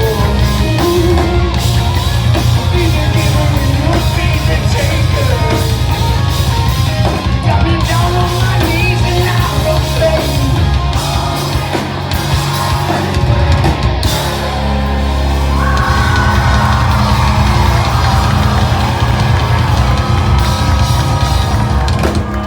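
Rock band playing live at full volume: drum kit, electric guitars and yelled vocals, moving about two-thirds of the way through into long sustained chords.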